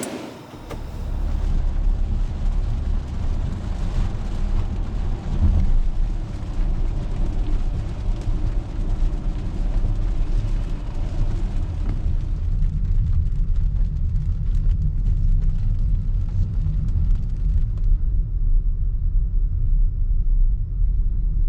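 Strong wind buffeting the microphone: a loud, gusty low rumble that rises and falls unevenly.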